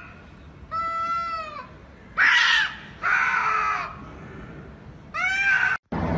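Two domestic cats caterwauling in an aggressive standoff: four long, wavering yowls, the second one louder and harsher, as one cat rears up to swipe at the other.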